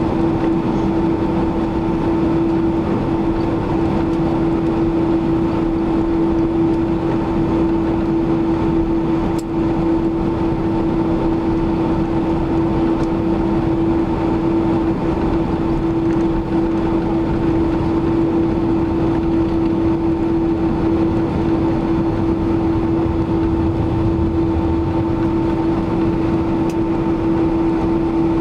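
Cabin noise inside a Boeing 767-300ER in flight: the steady drone of the jet engines and rushing air, with a strong unchanging hum running through it.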